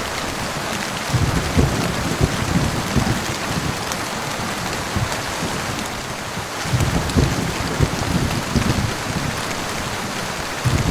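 Steady heavy rain falling, with low rumbles of thunder rolling in about a second in and again around seven seconds in.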